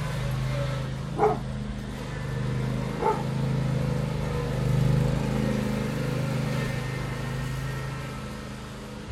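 Tractor engine running steadily, easing off slightly near the end, with a dog barking twice, about a second in and again about two seconds later.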